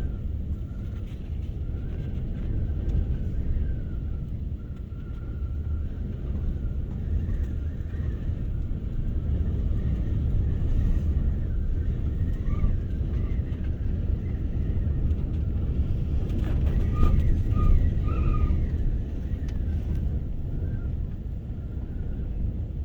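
Dust-storm wind gusting against a parked van: a deep rumble that swells and eases with each gust, strongest about 17 seconds in, with a faint wavering whistle as the wind howls around the van.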